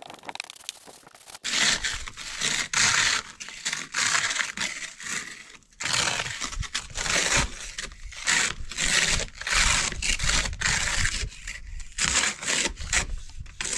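Snow being cleared off a car: a run of rough scraping strokes against the car's snow-covered surfaces, starting about one and a half seconds in and repeating irregularly.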